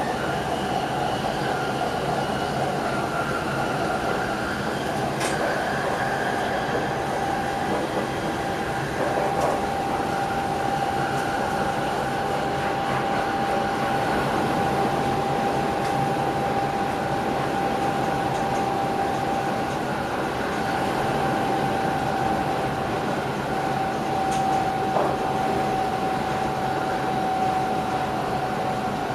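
Electric passenger train running along the line, heard inside the driver's cab. Steady running noise with a constant whine that sinks slightly in pitch near the end, and a couple of faint ticks.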